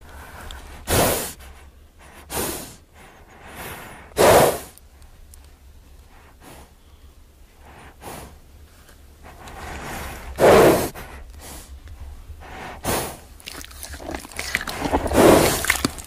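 A horse snorting and blowing through its nostrils: about six sharp, breathy snorts at uneven intervals of one to a few seconds, with softer breathing between them.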